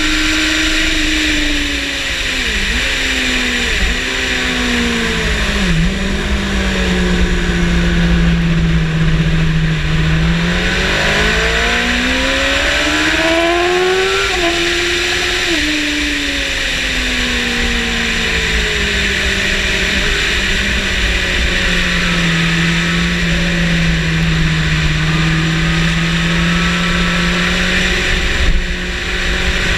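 Yamaha motorcycle engine heard on board at track speed. The revs fall through a few quick gear changes, then climb hard with an upshift about halfway, fall away again and rise once more near the end, over a steady rush of wind.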